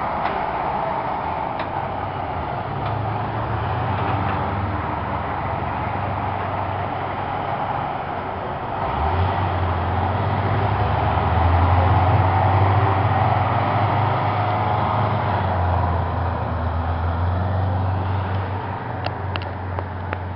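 Heavy fire trucks passing slowly, their diesel engines rumbling low; the rumble swells about halfway through as a truck draws close, then eases off, with a couple of light clicks near the end.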